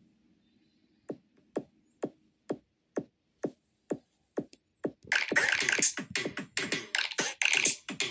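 Electronic drum-machine beat: a lone kick drum strikes about twice a second, then about five seconds in a much louder, fuller synthesizer pattern with bright high-end layers joins it.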